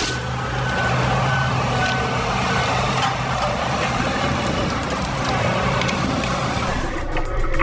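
A heavy machine's diesel engine running steadily, with a backup alarm beeping in short evenly spaced beeps during the first few seconds. About seven seconds in, the sound changes abruptly.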